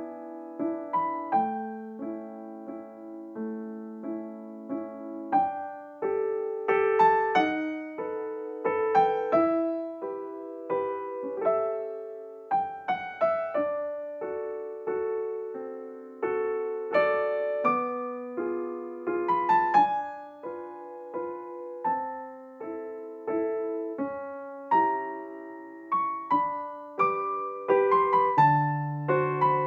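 Gentle solo piano background music, a melody of plucked-sounding notes over soft chords, with lower bass notes coming in near the end.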